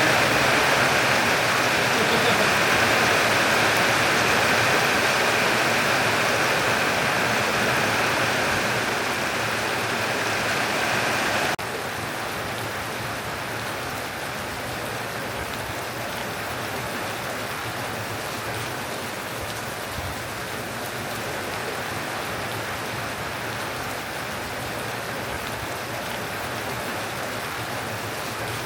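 Heavy rain from a summer thunderstorm, a steady downpour. About eleven seconds in, it drops abruptly to a softer, even rain.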